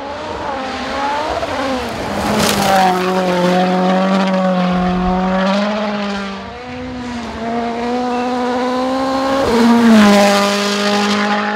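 Toyota Yaris WRC rally car's 1.6-litre turbocharged four-cylinder engine running hard at speed on a gravel road, its note holding high with a few drops and rises as the driver shifts and lifts, over a hiss of tyres and gravel. It is loudest about ten seconds in.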